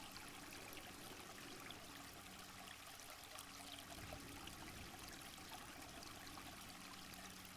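Faint running stream: an even rush of trickling water with small splashes.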